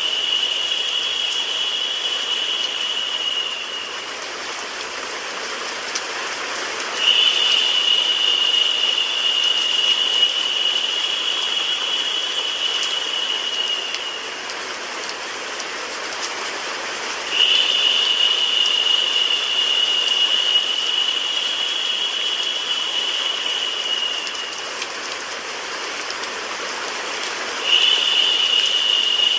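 Steady synthetic rain and white-noise mix, an even hiss. A higher, narrower hissing layer drops out and comes back in a repeating cycle, on for about seven seconds and off for about three, louder while it plays.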